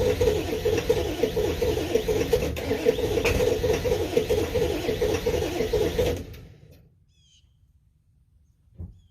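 Straight-piped 7.3-litre turbo diesel V8 running with a steady, rhythmic exhaust note, then shut off about six seconds in and winding down quickly. After it stops come a few faint bird chirps and a short thump near the end.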